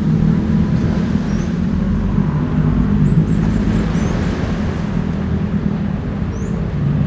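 An engine running steadily under a hiss of wind and water noise.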